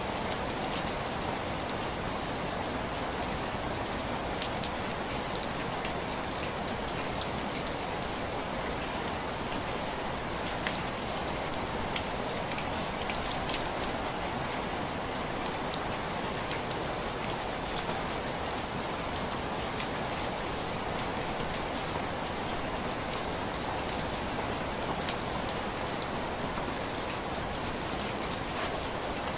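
Steady rain pattering on window glass, with many small drop taps over an even rush.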